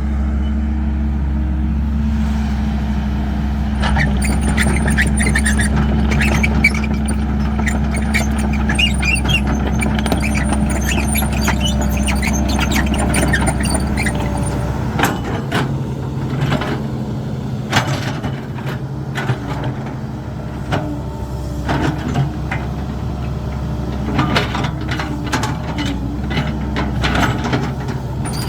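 Caterpillar 312 excavator at work: its diesel engine runs steadily, with high squeals and repeated sharp clanks and knocks. About halfway through, the deep engine note drops and the clanks come more often.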